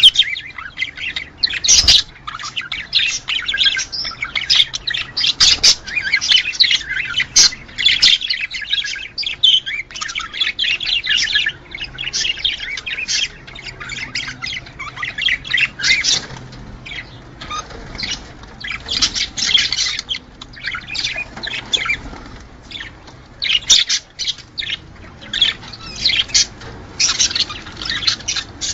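Budgerigars chattering and warbling in a dense run of rapid chirps with squawks mixed in, easing off a few times before picking up again. This is budgie mating chatter.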